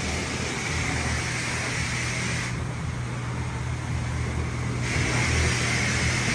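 A steady motor hum with a hiss over it; the hiss drops away for about two seconds in the middle, then returns.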